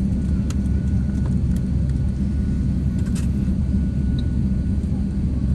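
Steady low rumble of airliner jet engines, with a faint steady high whine over it.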